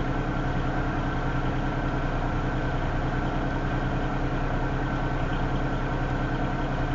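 Engine idling steadily, a low, even hum with a faint regular pulse.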